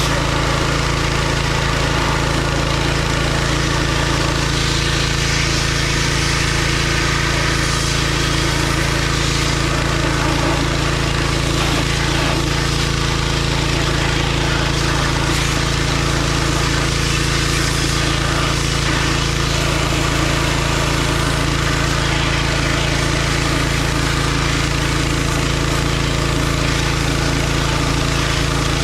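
John Deere 1025R compact tractor's three-cylinder diesel engine running at a steady speed, as when working a 260B backhoe.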